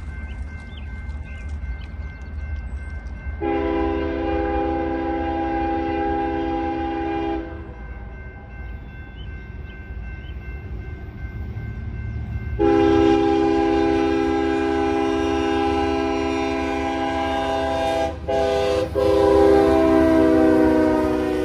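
Locomotive air horn sounding for a grade crossing over the steady rumble of the train. A long chord blast comes about three seconds in. A second long blast starts about halfway through and runs on with two brief breaks, its pitch falling slightly near the end as the locomotive passes.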